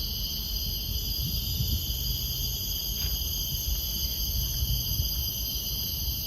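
Steady chorus of forest insects, several constant high-pitched drones layered together, over a low rumble.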